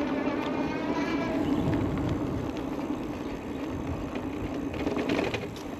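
Steady rush of wind and tyre noise from riding an Aventon Level 2 e-bike, with a faint wavering tone in the first second or so.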